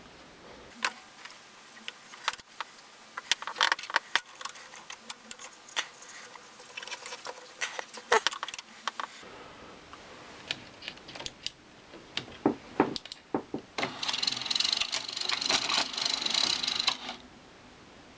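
A run of small plastic and metal clicks and rattles from the VCR's mechanism, then, about 14 seconds in, a small motor whirs steadily for about three seconds and stops: the Panasonic NV366 VHS recorder's loading mechanism unthreading the stuck tape on newly fitted drive belts.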